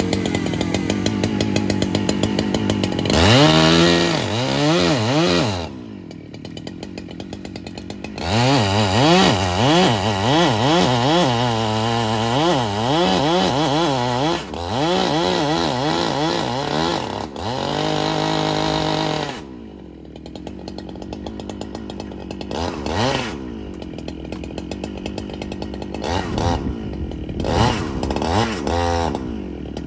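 Two-stroke chainsaw idling between several bouts of full revving and cutting, its engine pitch dipping and recovering again and again as the chain bites into the wood.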